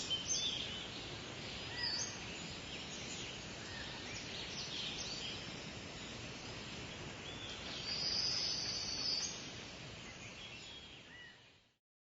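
Birds chirping and calling over a steady hiss of forest ambience, with a brighter run of calls around two-thirds of the way through; the whole fades out near the end.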